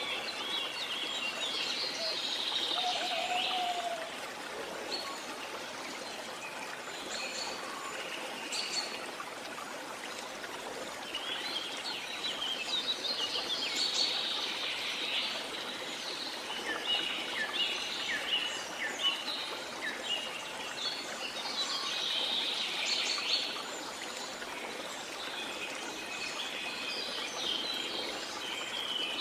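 Steady rush of a waterfall, with birds chirping and singing over it in clusters of quick, high notes every few seconds.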